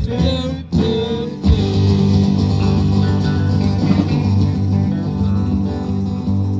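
Instrumental passage of a rock song: guitars and bass guitar playing, with a few quick chord changes before settling into one held chord about a second and a half in.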